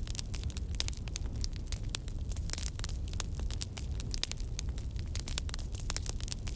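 Crackling fire ambience: a steady run of small, irregular pops and crackles over a low, even rumble.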